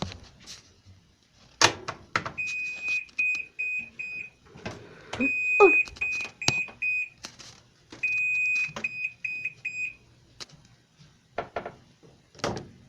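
Washing machine end-of-cycle signal: a high electronic beep pattern, one long beep followed by a few quick short beeps, played three times. Scattered clicks and knocks sound in between.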